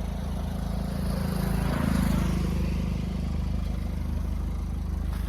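Car engine running steadily, with a swell of louder noise that peaks about two seconds in and then eases off.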